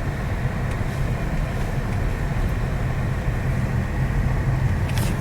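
Steady road and engine noise inside a moving Toyota C-HR's cabin: a low, even rumble from the tyres on the winter road.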